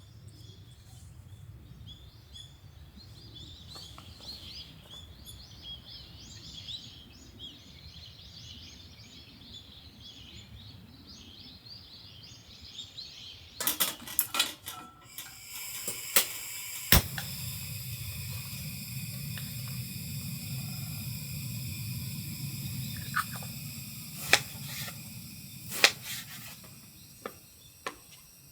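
Small birds chirping faintly over a low outdoor hum. About fourteen seconds in, a run of sharp clicks and clinks, then a steady low rumble with occasional knocks and clinks like camp utensils.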